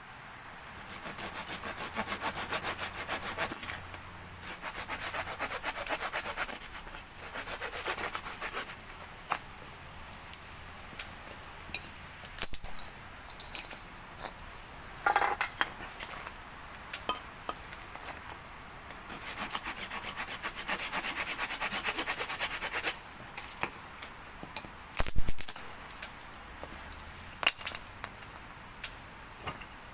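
Hand saw cutting through wood in three bouts of a few seconds each, with scattered knocks and clacks of wood between, the loudest about 25 seconds in.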